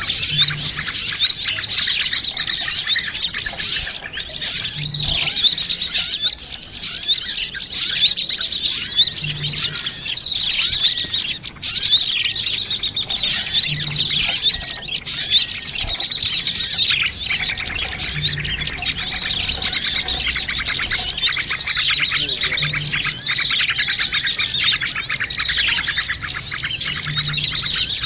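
Many small birds chirping and twittering at once in a dense, continuous chorus of quick, high, sweeping notes: a bird-lure (pikat) recording made to draw small birds in.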